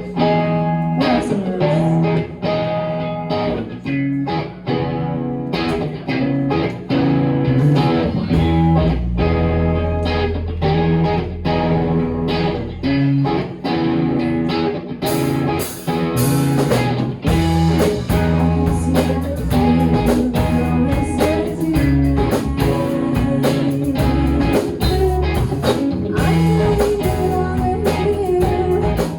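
A live band plays an instrumental passage on electric guitar, bass guitar and drums, with a steady beat. The bass gets heavier about a third of the way in, and bright cymbal-like hiss comes in about halfway.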